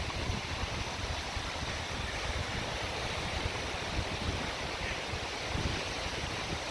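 Wind buffeting the microphone in a low, uneven rumble over the steady wash of ocean surf.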